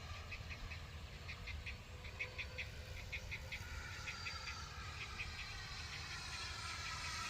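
Short chirping calls repeat in quick runs of two or three over a low rumble. From about halfway, a faint whine, typical of an RC jet's electric ducted fan, rises in pitch and grows louder.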